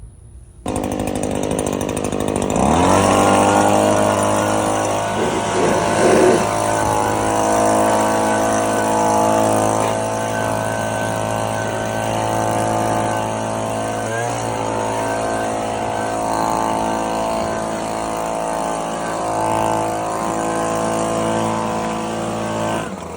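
Lawn tractor engine running; it revs up about two seconds in and then holds a steady speed.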